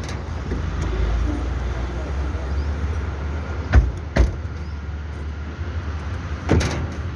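Tata truck's diesel engine running with a steady low rumble, broken by two sharp knocks about four seconds in and another near the end.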